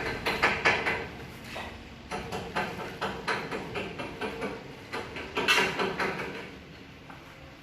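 Irregular metal knocks and clanks, like hammer blows on steel plate during dump-truck body fabrication, with a short ring after some strikes. The blows come quickly at first, thin out after about a second, and pick up again about five and a half seconds in.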